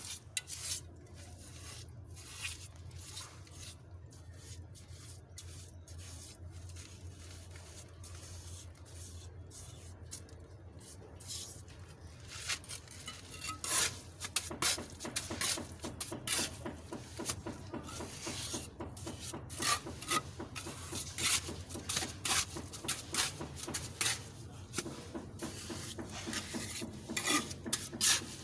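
Hand tool scraping and rasping against a rough surface, in sparse strokes at first and then quick, repeated strokes from about halfway through, over a steady low hum.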